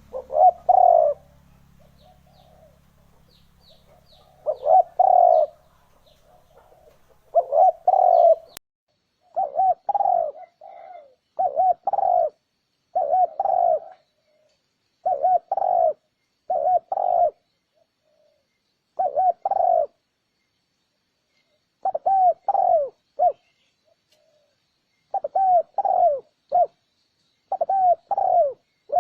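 Spotted dove cooing, a recorded lure call. It sings short phrases of a few low, curved coo notes again and again, with pauses of a second or two between them. A few faint, high chirps come from another small bird between about two and five seconds in.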